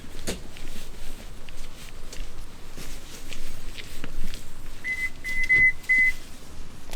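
A quick run of about four high electronic beeps, a little past the middle, over scattered clicks, knocks and rustling from handling.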